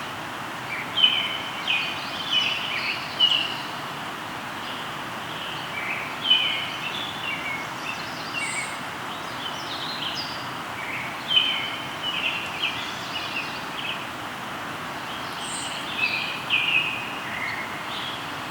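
A songbird singing a short chattering phrase four times, about every five seconds, over the steady rush of a flowing river.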